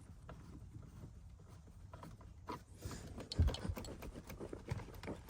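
Small clicks and knocks of hands working plastic steering-column parts and a screw, starting about halfway through, with one louder knock.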